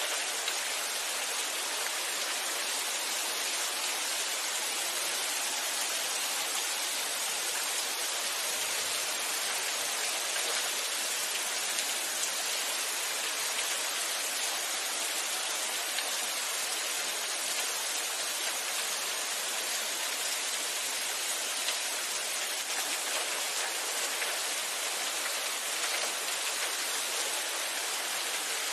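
Steady rain falling, an even hiss of many drops hitting a surface with no thunder or breaks.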